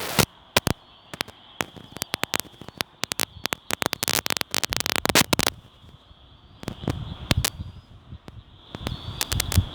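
Irregular sharp crackling clicks, thick for a couple of seconds near the middle, over a faint steady high-pitched hum.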